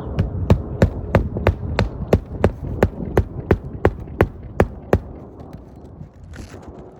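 Hammer driving a roofing nail through an asphalt shingle: a steady run of about fifteen sharp strikes, roughly three a second, that stops about five seconds in.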